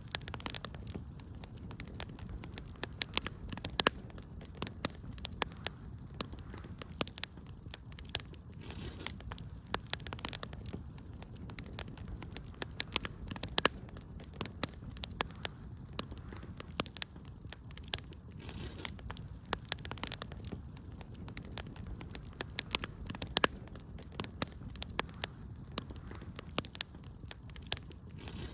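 Wood fire crackling in a fireplace: frequent, irregular sharp pops and snaps over a steady low rumble of the burning logs.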